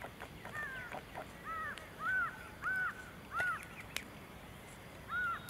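A bird calling repeatedly outdoors: a run of short, arched calls about half a second apart, then a pause and one more call near the end.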